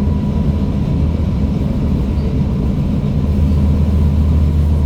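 Tram running, a steady low rumble with a faint, constant high-pitched tone over it; the rumble grows a little louder about two-thirds of the way in.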